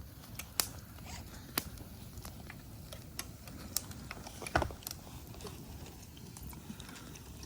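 Wood campfire crackling: a low steady hiss broken by sharp, irregular pops about once a second or less, the loudest a little after the middle.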